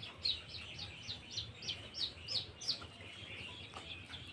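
A bird calling: a quick run of about nine short, high, downward-sliding chirps, three or four a second, growing louder and stopping after about two and a half seconds, with other birds chirping faintly behind.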